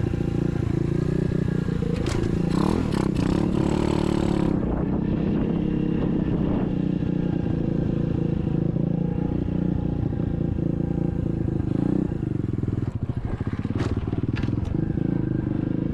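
SSR 125 dirt bike's single-cylinder four-stroke engine running at low revs, its pitch wavering a little. Clattering and scraping a couple of seconds in and again near the end.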